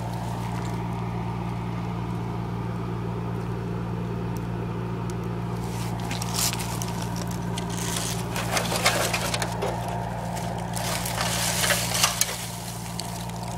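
Steady low mechanical hum from the building's equipment, which sounds like a radiator. From about six seconds in, irregular crunching footsteps join it.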